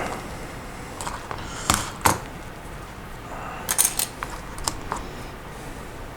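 Plastic Lego Technic pieces clicking and clattering as they are handled and sorted: a few sharp clicks, with a quick cluster of them about four seconds in.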